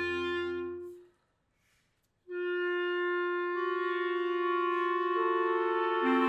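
Clarinet quartet playing held chords. One chord dies away about a second in, and after a second of silence a new chord begins and builds as more clarinets come in one after another on long held notes.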